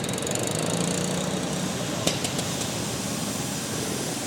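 Small garden tractor engine running steadily, with a sharp click about two seconds in.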